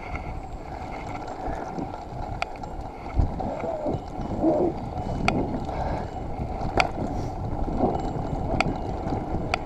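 Mountain bike ridden over a wet, muddy single-track trail: a steady rough rumble of the tyres and bike rattling over the ground, with a few sharp clicks and knocks from the bike.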